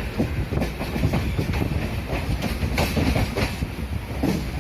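Passenger train running, heard from on board: a steady low rumble of the carriage with repeated clickety-clack knocks of the wheels over rail joints.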